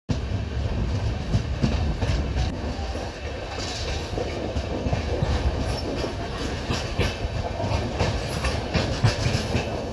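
Passenger train running on the rails, heard from aboard: a steady rumble of wheels on track with sharp clicks from the wheels crossing rail joints, coming thicker near the end.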